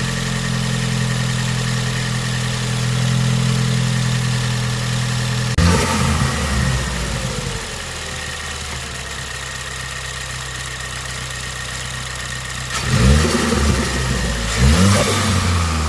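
2018 Ford Focus ST's 2.0-litre EcoBoost four-cylinder idling steadily on freshly replaced spark plugs, with two short revs rising and falling near the end.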